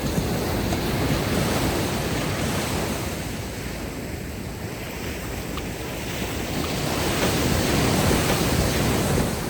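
Ocean surf washing ashore: a steady rush that swells with one wave about a second in, eases off in the middle, then builds to a louder wave near the end.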